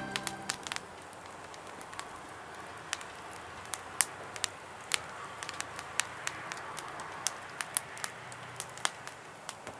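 Wood fire burning in a campfire stand, crackling with irregular sharp pops over a soft steady hiss.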